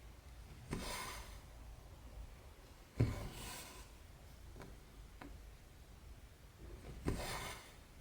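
Embroidery needle punching through cross-stitch fabric and the thread drawn through with a short rasping pull, three times. A couple of faint ticks fall in between.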